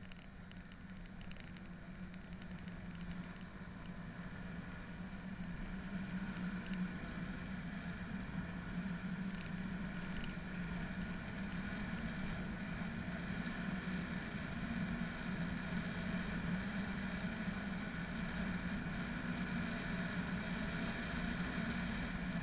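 Motorcycle engine running steadily while riding, its pitch rising a little in the first few seconds and growing gradually louder.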